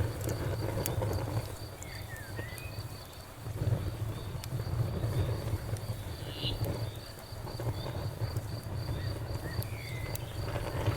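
Campfire burning, with scattered crackles and pops over a low rumble, while crickets chirp steadily in a fast pulsing trill.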